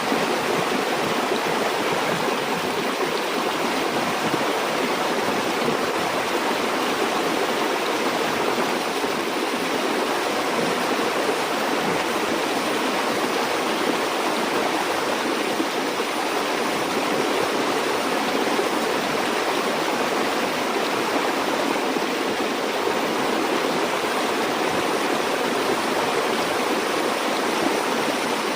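Stream water flowing and rushing steadily, an even, continuous sound with no breaks or changes.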